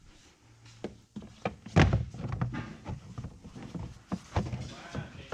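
A series of irregular knocks and clunks, the loudest about two seconds in.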